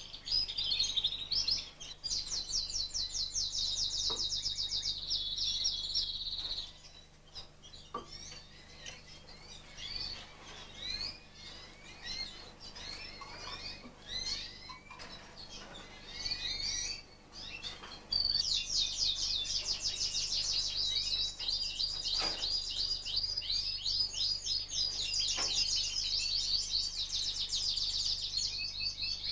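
Fife canaries singing in fast, high rolling trills. A burst of trilling is followed by scattered chirps, then a long unbroken trilling song over the second half.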